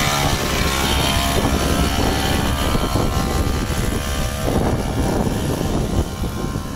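Mini bike's small petrol engine running steadily as the bike is ridden.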